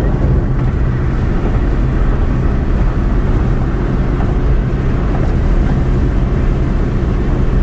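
Car driving: steady road and engine noise with a low hum.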